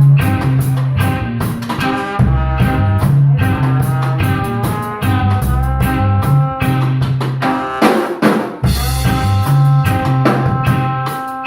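Live instrumental rock band playing: drum kit keeping a steady beat under bass notes and sustained guitar notes. About eight seconds in there is a quick drum fill while the bass briefly drops out.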